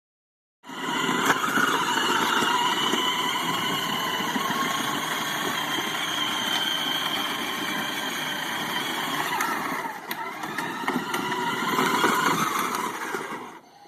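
Sports car engine running loudly and steadily. It dips briefly about ten seconds in, rises again, then drops away near the end.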